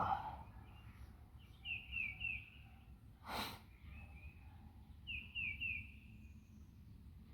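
Songbird calling: groups of three short, falling chirps, repeated a few seconds apart over a steady outdoor background. A brief breathy whoosh stands out about three and a half seconds in.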